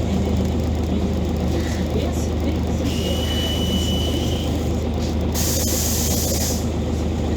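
Scania OmniCity city bus heard from inside, its engine running with a steady low drone. About five and a half seconds in, the bus's compressed-air system lets out a sharp hiss lasting about a second.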